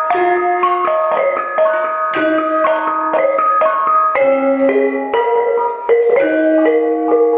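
Javanese gamelan with bonang gong-chimes: bronze kettles and keys struck in a steady run of notes that ring on and overlap one another.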